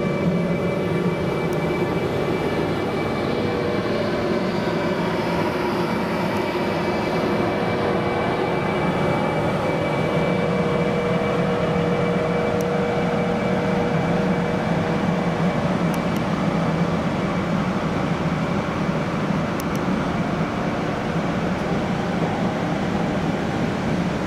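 A CP Series 5600 electric locomotive hauling Corail coaches running along the station platform: a steady rumble of wheels on rail, with a thin high whine throughout and a lower tone that swells midway.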